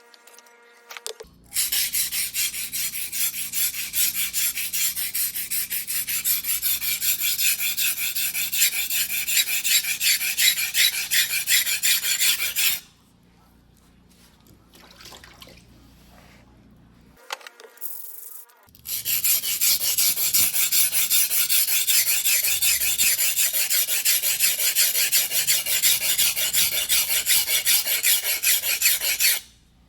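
Blade of a single-bevel white-steel fuguhiki sashimi knife stroked rapidly back and forth on a whetstone in a steady scraping rhythm, as a damaged edge is ground. It runs for about ten seconds, pauses for several seconds, then starts again for another ten seconds.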